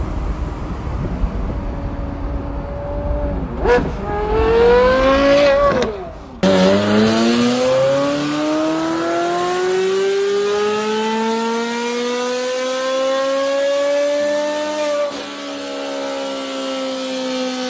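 Porsche supercar engine with a loud custom exhaust, revving. A quick blip about four seconds in, then a climb that cuts off abruptly, then a long steady rise in pitch as it accelerates, easing to a steady lower drone near the end.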